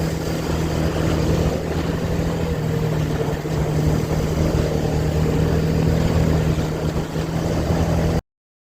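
Bajaj Dominar 400's single-cylinder engine running at a steady speed, with wind and road noise. The sound cuts off suddenly near the end.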